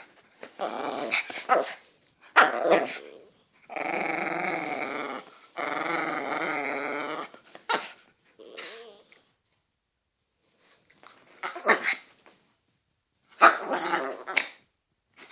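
Dogs playing, barking and growling: short barks at first, then two long drawn-out growls of well over a second each, then more short barks near the end after a brief pause.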